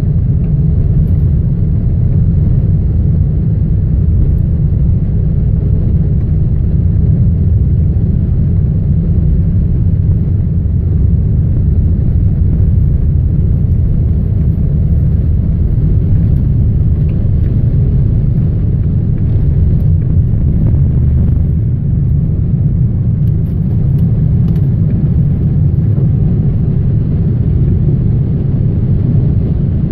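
Boeing 777 airliner's jet engines and airflow: a loud, steady low rumble that holds even throughout.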